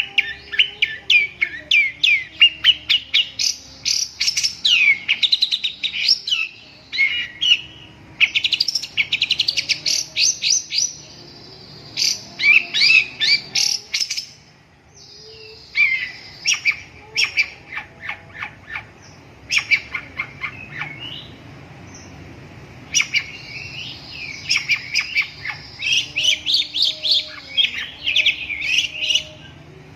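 Long-tailed shrike (cendet) singing: fast, chattering runs of quick high notes, in phrases of one to three seconds with short pauses between.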